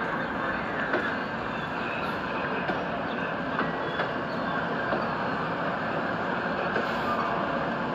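Train rolling past close by: a steady rolling rumble of wheels on rail, with occasional light clicks over the rail joints.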